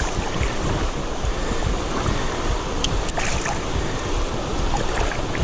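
Steady rush of river water with wind buffeting the microphone, and a few faint ticks about three seconds in.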